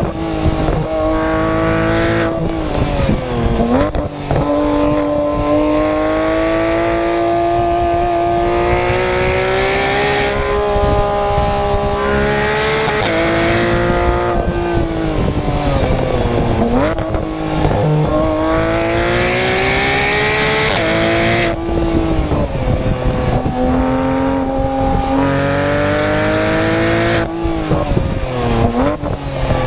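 Porsche 991 GT3 RS's naturally aspirated flat-six exhaust under hard track driving. The pitch climbs steadily through each gear, falls abruptly at the shifts, and dips low several times, at about 3, 17 and 28 seconds in, before climbing again.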